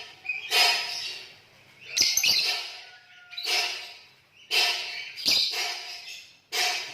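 Green lovebirds chattering in shrill, rattling bursts, each about a second long, five times with short pauses between.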